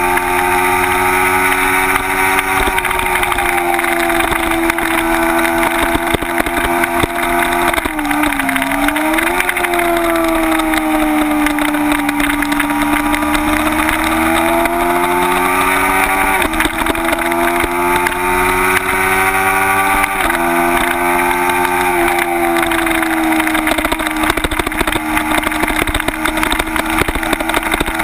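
Kawasaki Ninja 250's parallel-twin engine running near the top of its revs at track speed, with steady wind rush. The pitch sags and climbs again once as the bike slows for and exits a corner, drops sharply twice in the second half at upshifts, then falls off gradually and picks up again near the end.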